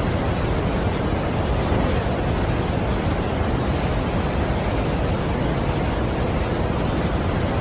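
Steady rushing of a large waterfall: a dense, even wash of falling water, heaviest in the low end and unchanging throughout.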